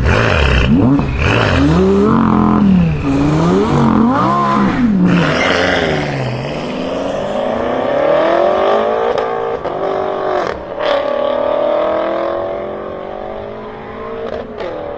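BMW M6 Gran Coupe's twin-turbo V8 with an Akrapovic exhaust, blipped about five times in quick revs. It then accelerates hard with the pitch climbing, cracks sounding at two gear changes, and fades as it pulls away.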